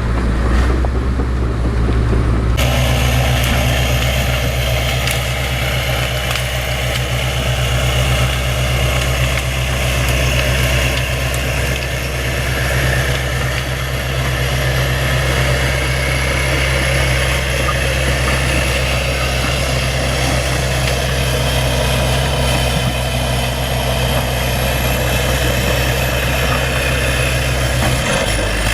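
Bulldozer's diesel engine running steadily under load. The sound changes abruptly about two and a half seconds in.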